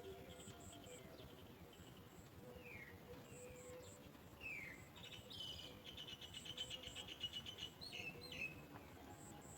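Birds calling faintly: a few short, downward-sliding chirps, then a rapid chattering trill that runs for about three seconds from about five seconds in and is the loudest part.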